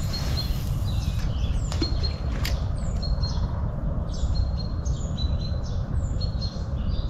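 Small birds chirping over and over with short high notes, some sliding downward, over a steady low rumble.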